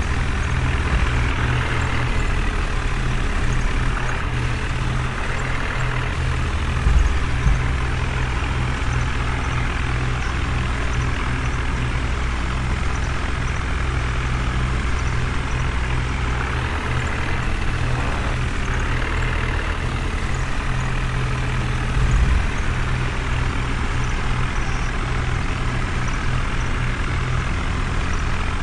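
Steady truck-like engine running with a low rumble, with two brief low thumps, about seven seconds in and again near the end.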